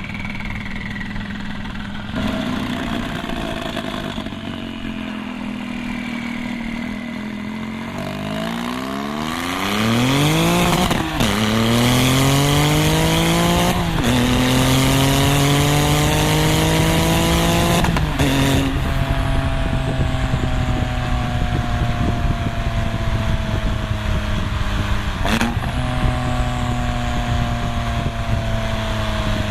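Straight-piped twin-turbo 3.6 L flat-six of a 2001 Porsche 996 911 Turbo. It runs low at first, then from about eight seconds in revs hard, its pitch climbing and dropping back at each of three gear shifts. It then settles into a steady, slowly falling drone.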